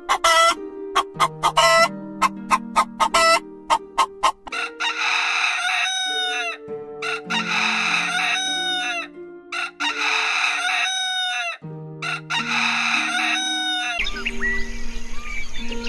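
A chicken clucking in quick short calls, then a rooster crowing four times, each crow about two seconds long and ending in a falling note. Soft background music plays throughout. Near the end it cuts to faint bird chirps.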